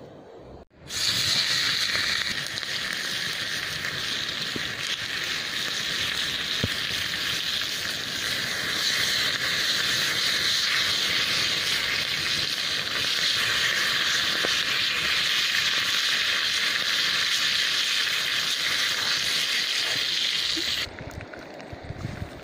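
Pig ear frying in a hot pan over a wood fire: a steady, loud sizzle that starts suddenly about a second in and cuts off suddenly near the end.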